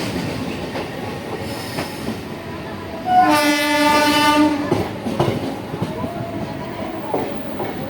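Train running with a steady rumble and rail clatter; about three seconds in, a train horn sounds one blast of about a second and a half.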